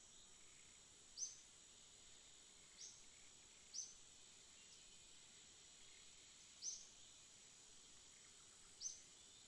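Songbirds giving single short, high chirps, five times at irregular intervals, over a continuous faint high-pitched insect hum.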